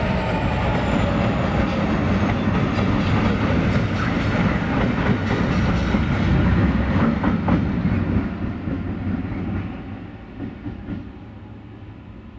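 Three Class 66 diesel locomotives coupled together and running light, passing: their two-stroke V12 engines rumble and the wheels clatter over the rail joints, fading away about eight to ten seconds in.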